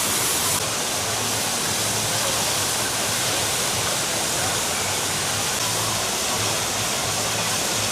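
Steady loud rushing of water, an even hiss with no breaks.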